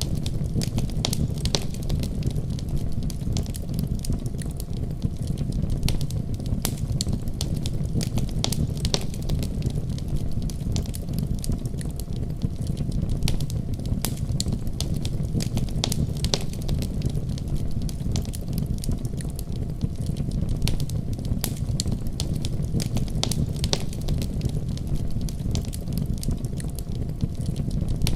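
Wood fire crackling with frequent sharp pops, over a steady low rumble of storm wind.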